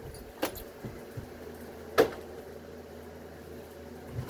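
Two sharp knocks about a second and a half apart, the second louder, over a faint low steady hum.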